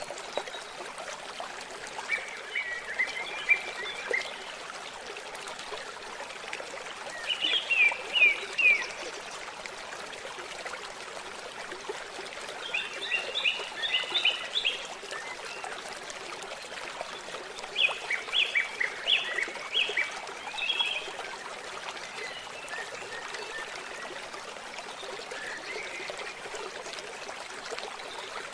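Steady flow of water trickling, with a songbird singing short phrases of quick notes over it, one phrase about every five seconds.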